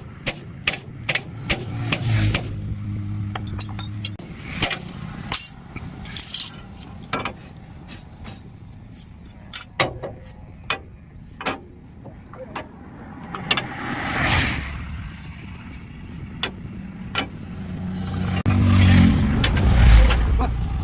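Irregular hammer blows on steel, sharp knocks with pauses between them, during a truck leaf-spring repair. A vehicle's engine rumbles, swelling loudest near the end.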